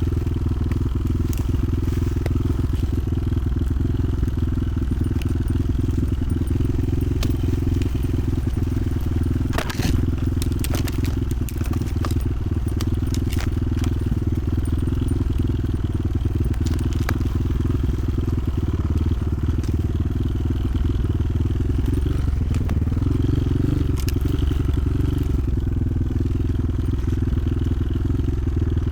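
Motoland XR 300 Lite enduro motorcycle running steadily while being ridden, a low, even engine rumble, with a cluster of sharp clicks and knocks about ten seconds in.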